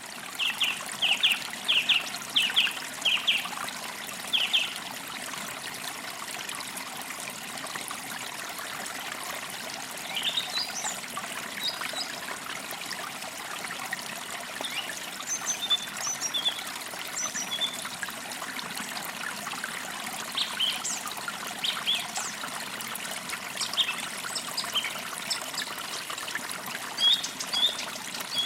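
Forest creek trickling steadily, with birds chirping over it: a run of quick, repeated chirps in the first few seconds, then scattered higher chirps through the rest.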